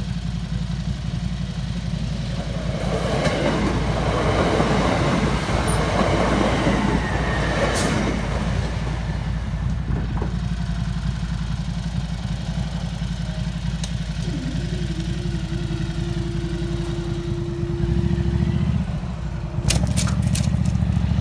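Class 375 Electrostar electric multiple unit passing over the level crossing, its rush loudest a few seconds in and then fading. Later comes a steady hum lasting several seconds, around the time the crossing barrier rises, and a few sharp clicks near the end.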